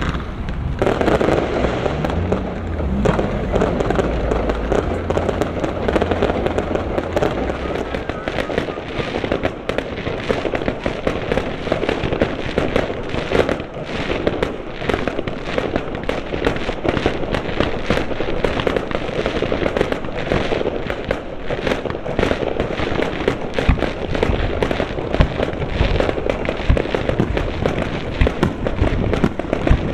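A fireworks display, with shells bursting and stars crackling in a dense, unbroken run of pops and cracks. A low rumble fades out in the first few seconds.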